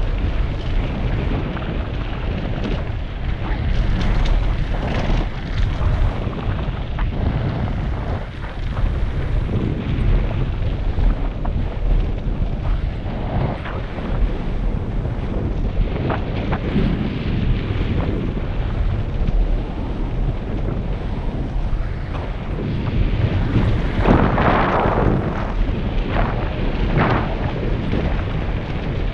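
Wind buffeting a helmet-mounted GoPro's microphone during a fast downhill mountain-bike ride, a steady low rumble. Scattered short rattles and crunches run through it, with a louder gust about three-quarters of the way in.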